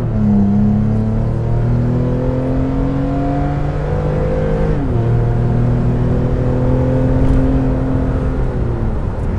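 Toyota Tacoma 3.5L V6 running through an MBRP XP Series turn-down single exhaust with a straight-through muffler, under acceleration: the exhaust note climbs steadily in pitch, drops at a gear shift about five seconds in, then climbs again and falls away near the end.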